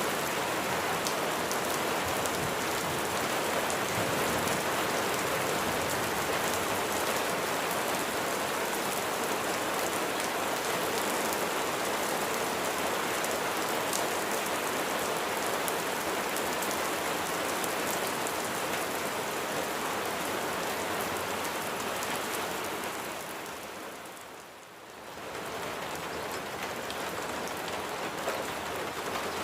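Rain falling steadily, an even hiss of drops on surfaces. About 23 seconds in it fades down briefly and comes back up a couple of seconds later.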